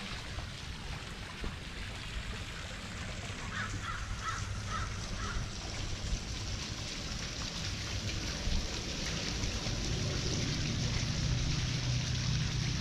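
Steady outdoor background noise with a low rumble. A few seconds in, a bird gives a quick series of about five short calls.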